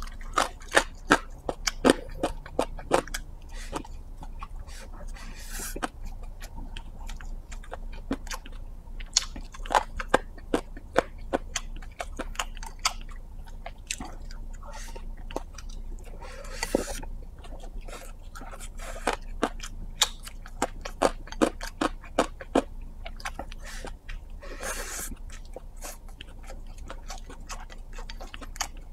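Close-miked chewing of a mouthful of egg fried rice: a steady run of sharp clicks and crunches from the mouth, with a few short breathy hisses between.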